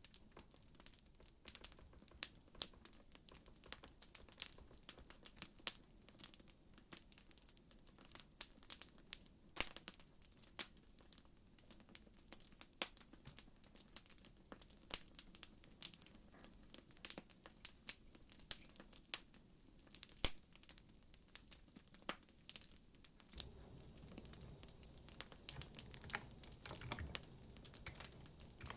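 Wood fire crackling, with quiet irregular sharp pops and snaps several times a second. A low rumble joins in near the end.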